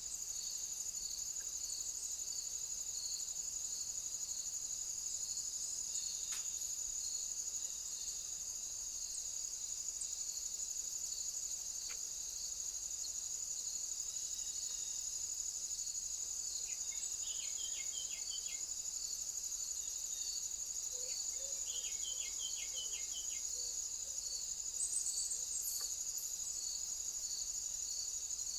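Insects trilling steadily at a high pitch, with a fainter pulsing chirp beneath.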